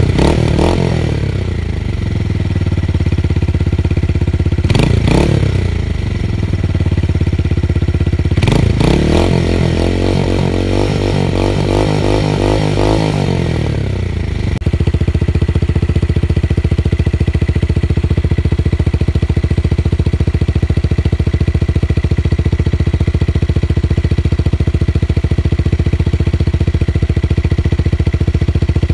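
Tuned motorcycle engine with a deep, bassy exhaust note, revved twice in short throttle blips, then held at higher revs for several seconds before dropping back. From about halfway it sits at a steady idle.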